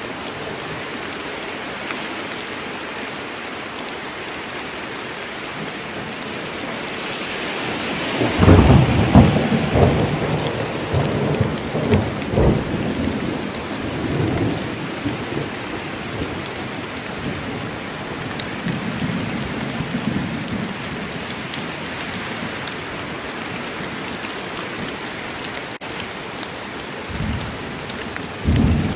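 Steady rain falling in a forest, with thunder: a rumble swells about eight seconds in, rolls on for several seconds and dies away, and two brief low rumbles come near the end.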